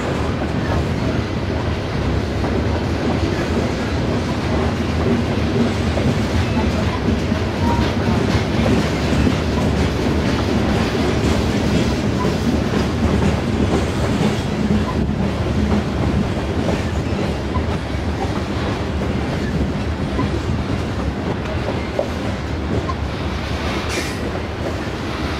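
Loaded coal hopper cars of a long freight train rolling past: a steady rumble of wheels on rail with faint repeated wheel clicks. A short, sharp high-pitched noise stands out about a second before the end.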